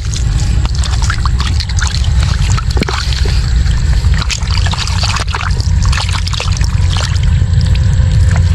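Shallow water splashing and trickling with irregular clicks and crackles over a steady low rumble.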